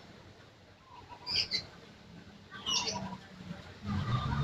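Birds chirping: two short high calls about a second and a half apart, with a low steady sound coming in near the end.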